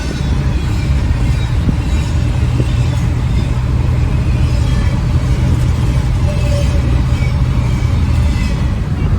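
Car driving on a highway, heard from inside the cabin: a steady low hum of engine and road noise.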